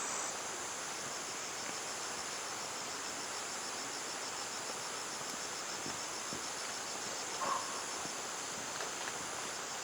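A steady, high-pitched chorus of insects, with a fast, even pulsing trill.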